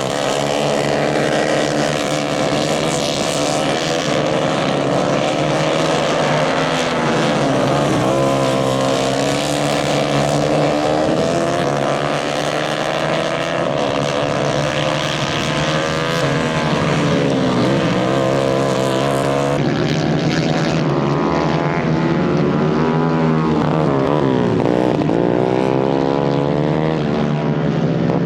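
A pack of 150 cc racing karts running together, several engines revving up and down at different pitches as they go through the corners and straights.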